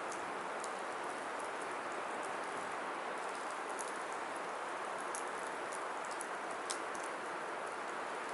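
Firewood burning: a steady rushing hiss with frequent small crackles and pops, and one sharper pop about six and a half seconds in.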